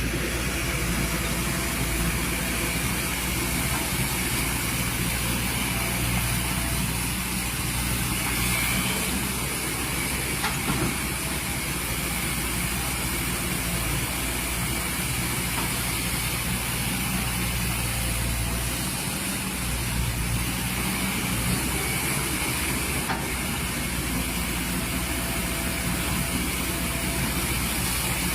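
Excavator's diesel engine running steadily, with a constant high hiss over it.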